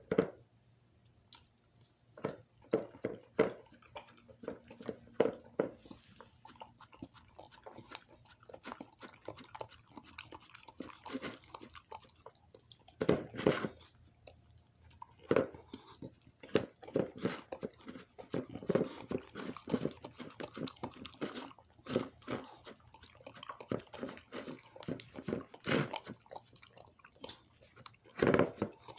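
A puppy licking and lapping leftover dog ice cream from a mixer bowl, in irregular runs of quick wet licks, with a few louder knocks and bumps against the bowl.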